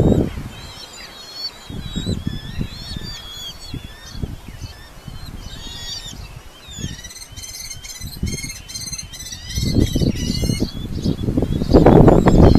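Birds in a falcon nesting colony chirping high and thin, with a fast run of repeated sharp calls about seven seconds in. Bursts of low rumbling come and go and are loudest near the end.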